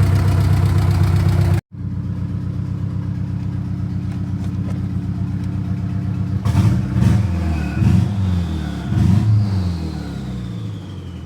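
Turbocharged Honda F23 four-cylinder engine running with a misfire from a bad ignition coil pack. It cuts out for an instant early on, is revved three times in quick blips about halfway through, then settles back with a high whine falling in pitch near the end.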